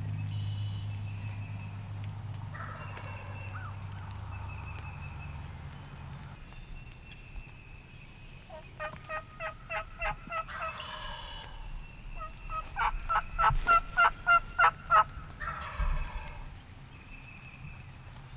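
Wild turkey yelping: two runs of evenly spaced yelps, about five notes a second, the second run longer and louder.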